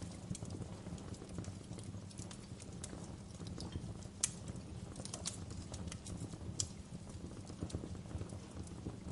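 Fire crackling with irregular small pops over a low, steady rumble of flames; one sharper pop about four seconds in and another a couple of seconds later.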